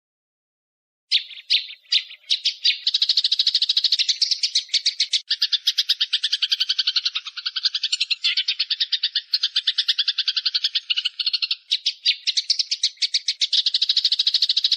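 A bird's dry, very fast trill of evenly repeated sharp notes, starting about a second in after silence and running on without a break: a bird call recorded for training songbirds.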